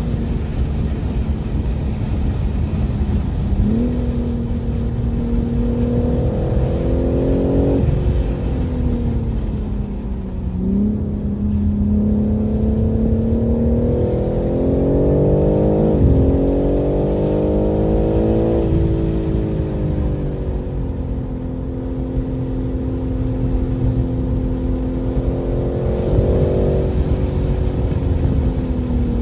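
BMW M3 Competition's twin-turbo inline-six pulling hard on track. The engine pitch rises through the gears, drops sharply at each upshift and winds down as the car slows for corners, over steady wind and tyre noise.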